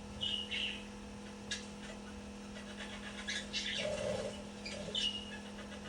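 Baby budgerigar giving a few short chirps, with scattered light clicks between them, over a steady low hum.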